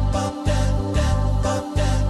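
Vocal-only rhythm track made of layered human voices: deep hummed bass tones under short hissed vocal percussion strokes, repeating in a steady beat.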